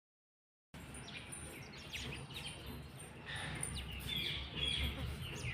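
Green ringneck parrot chirping: many short, quick calls that sweep downward in pitch, coming in rapid runs after a brief silence at the start.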